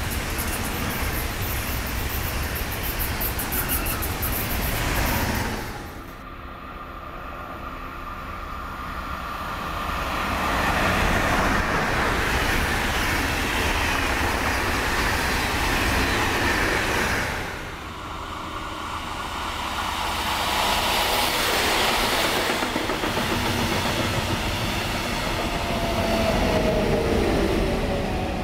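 Trains passing on the line: steady wheel-on-rail running noise that drops away sharply about six seconds in and again later, building back up each time. Near the end a faint tone slides downward.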